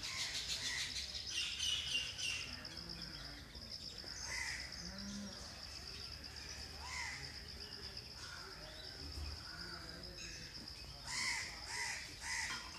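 Birds calling in the trees: short calls scattered throughout, with a burst of louder calls near the end. A steady high-pitched drone runs underneath.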